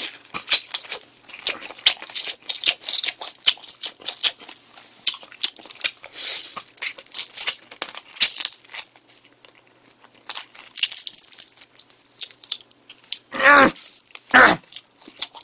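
Close-miked biting and chewing of spicy smoked chicken: a steady run of short, wet clicking mouth sounds, with two louder brief sounds near the end.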